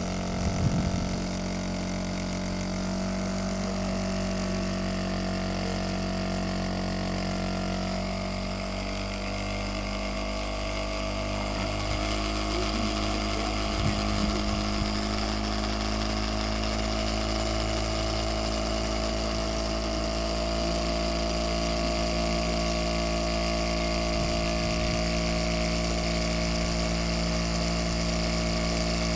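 A small solar-powered Stirling engine running steadily with an even mechanical hum, its pitch shifting slightly partway through. There are a couple of brief knocks, about a second in and about halfway through.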